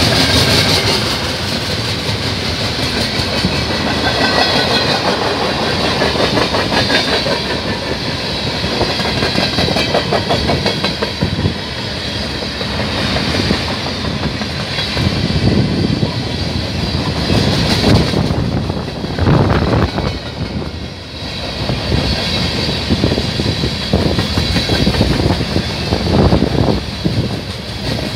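Freight train passing close by at speed: steel wheels rolling on the rails, a continuous loud rumble and rush with rapid clicks over the rail joints as the freight cars go by.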